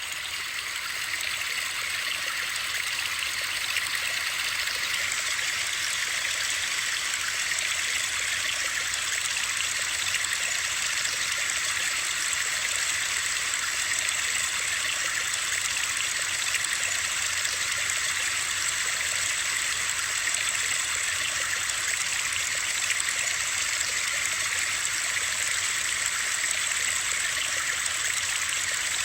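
Steady, even hiss of a white-noise sleep track, bright with little low rumble and with a running-water quality, fading in from silence over about the first second and then holding unchanged.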